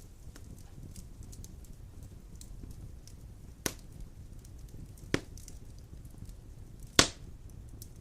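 Wood fire burning in a fireplace: a low steady rumble with faint crackles, and three sharp pops of the burning logs, the loudest near the end.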